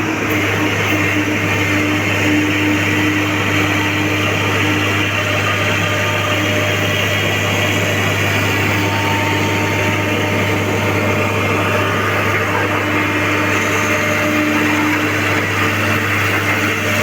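John Deere excavator's diesel engine running steadily at a constant pitch and level, with a low hum throughout.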